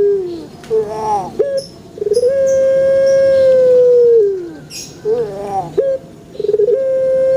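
Puter pelung, a Javanese singing strain of the Barbary dove (Streptopelia risoria), cooing its long song. Each phrase is a few short rolling notes followed by one long, drawn-out clear note held about two seconds that drops in pitch at the end, repeated about three times.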